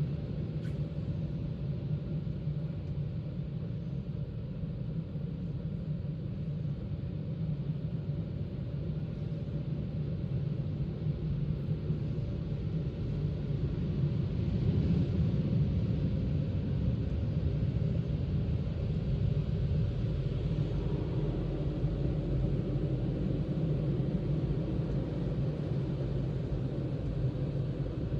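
Automatic car wash machine running: a steady low rumble.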